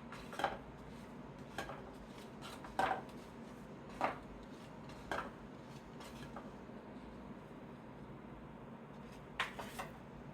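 Trading cards being handled and set down on a table: soft taps and light clicks about once a second, a pause of a few seconds, then a quick cluster of taps near the end.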